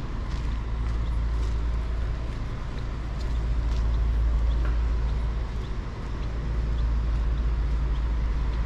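Street ambience dominated by steady road-traffic rumble, swelling as a vehicle passes about four seconds in.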